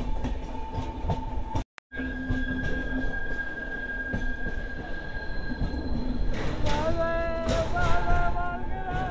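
Passenger train coaches running on the track, wheels clattering over the rails, with a long steady wheel squeal of steel on the rails. About two-thirds of the way in, a wavering squeal with several tones joins in. The sound drops out completely for a moment just before the 2-second mark.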